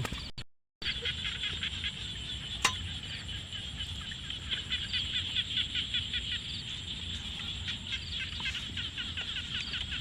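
A steady chorus of rapid, high chirping animal calls over a low background rush. There is a brief dropout in the sound just after the start and a single sharp click a few seconds in.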